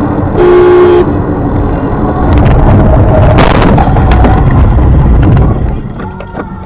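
Car dashcam audio: loud road and engine noise, with a short loud pitched blast like a horn about half a second in. From about two seconds in come three seconds of loud rushing noise with sharp knocks.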